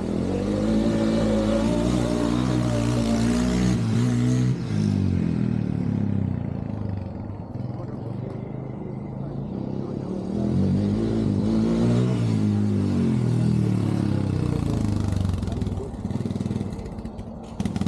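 Chevy Cobalt SS turbocharged four-cylinder engine accelerating under load twice. The pitch climbs for about four seconds before falling off sharply, eases for several seconds, then climbs again from about ten seconds in.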